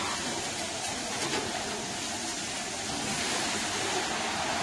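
Sliced onions sizzling steadily in butter over high heat in a large, wide metal pan, with chopped mushrooms tipped in on top partway through.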